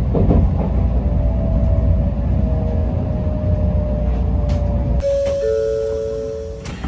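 Shinkansen train rumbling as it slows into a station, with a whine that slowly falls in pitch. About five seconds in the rumble drops away abruptly and two steady electronic tones sound, a chime at the carriage door.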